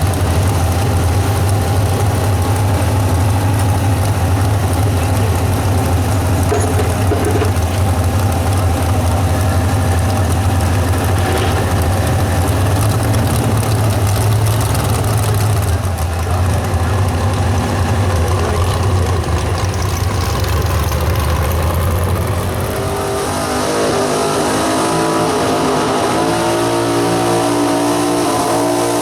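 Engine of a Super Stock 4x4 pulling truck running loud with a steady deep drone, then revving with a pitch that steps up and down from about 23 seconds in.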